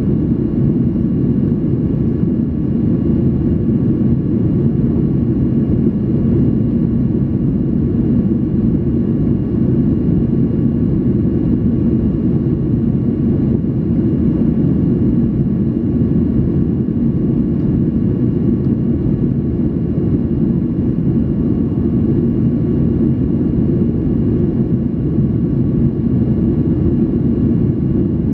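Cabin noise of a Boeing 737-800 in flight: a constant low roar of engines and airflow, with faint steady whining tones above it.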